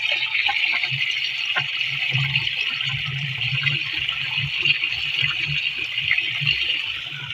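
Water gushing steadily out of a deep tubewell's outlet, a continuous rushing splash with a low uneven rumble beneath.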